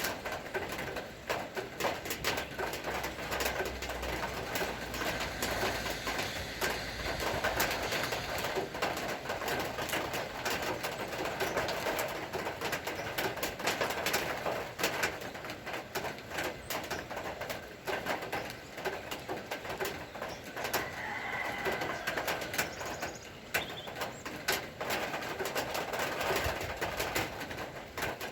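Rain falling as a dense patter of drops, with birds calling through it.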